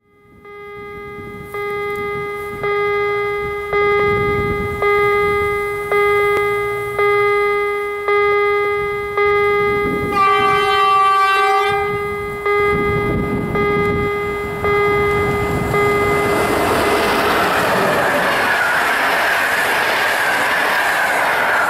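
An electric-hauled passenger train approaching and passing. A ringing tone pulses about once a second, the locomotive's horn sounds for about two seconds around the middle, and in the last third the rolling noise of the locomotive and carriages passing at speed swells up.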